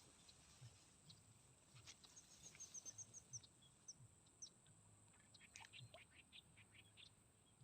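Faint bird calls: a quick run of about eight short, high chirps two to three seconds in, a few single chirps, then a scatter of short notes near the end, over a steady high hiss.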